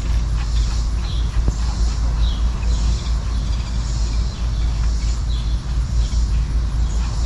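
Steady low wind rumble on the microphone, with short bird chirps coming again and again and a few light clicks.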